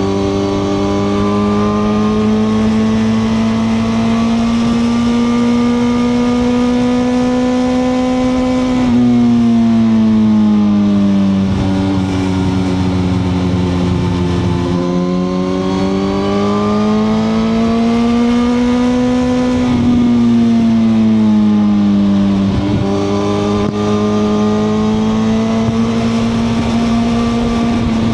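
Suzuki GSX-R1000R inline-four sportbike engine running under way, heard onboard, its pitch rising slowly under throttle and falling off, with a sudden step down in pitch about nine seconds in and another about 23 seconds in. Wind and road rush run underneath.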